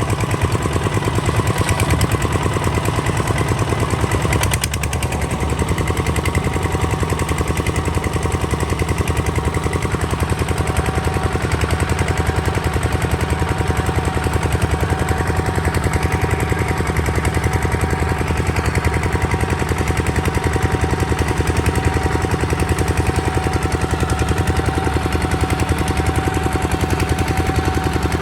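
Kubota ZT 155 DI single-cylinder diesel engine running steadily, with a rapid, even chugging beat.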